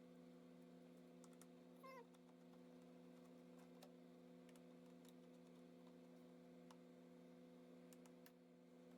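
Near silence: a faint steady hum with a few faint scattered clicks, and one brief faint squeak about two seconds in.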